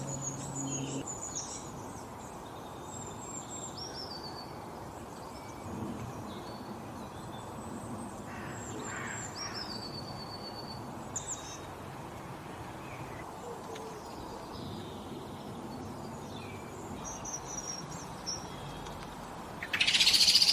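Several small birds chirping and whistling in short, scattered calls over a steady outdoor hiss. Near the end, a loud, harsh burst of sound rises above them.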